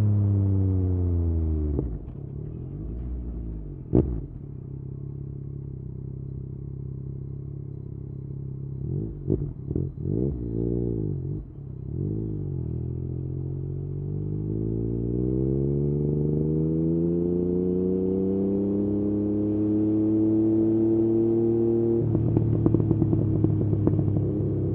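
Yamaha MT-09's three-cylinder engine through an Akrapovič exhaust, engine speed falling off at first, with a single sharp crack about four seconds in. A few quick throttle blips follow around the middle, then the pitch climbs slowly as it accelerates, and near the end the note turns louder and rougher with crackling.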